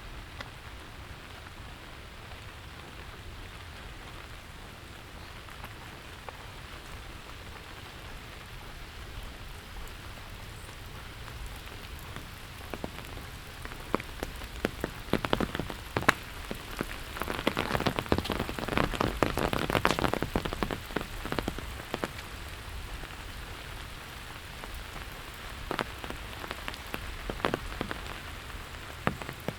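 Steady rainfall hissing, with a spell of louder, close pattering drops about halfway through and a few more near the end.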